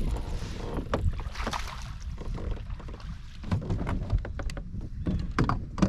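Wind rumbling on the microphone aboard a fishing kayak, with scattered small knocks and clicks.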